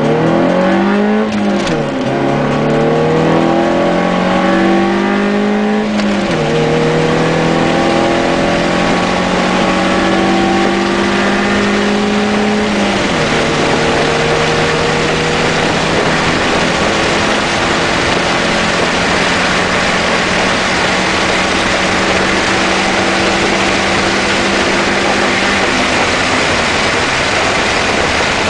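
1998 Chevrolet Cavalier Z24's 2.4-litre four-cylinder heard from inside the cabin under hard acceleration through a close-ratio built manual gearbox. The revs climb and drop back at three upshifts, about 2, 6 and 13 seconds in. After the last shift the engine pulls slowly higher for a long stretch while wind and road noise grow, and its note falls away near the end.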